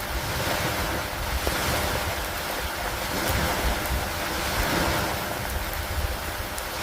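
Steady rain falling on an old wooden dock: an even hiss with scattered faint drop ticks over a continuous low rumble, swelling and easing slowly in loudness.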